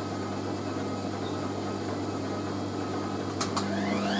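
Hoover A3060 Electronic 1100 washing machine running with a steady motor hum, then two clicks about three and a half seconds in and a rising whine as the motor starts speeding the drum up into spin.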